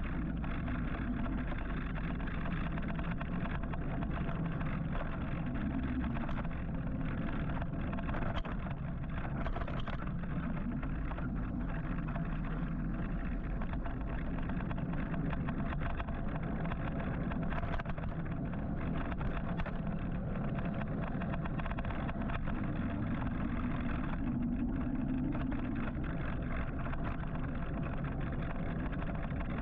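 Steady road and traffic noise heard while riding an electric motorcycle in rush-hour traffic, with a constant low rumble and a faint steady tone.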